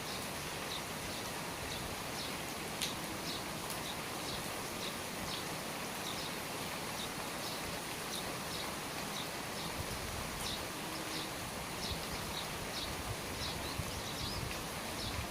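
Steady rain falling by the eaves, an even hiss, with a bird giving short high chirps about twice a second throughout. A few sharper drip taps stand out, around three and ten seconds in.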